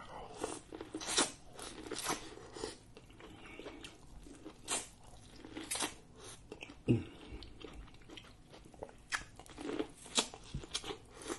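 Grilled corn on the cob being bitten off the cob and chewed: irregular crisp crunches and wet mouth clicks.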